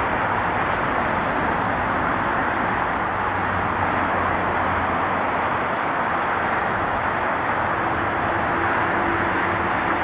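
Jet airliner engines at an airport: a steady rushing jet noise with no change in level, a faint steady whine coming in near the end.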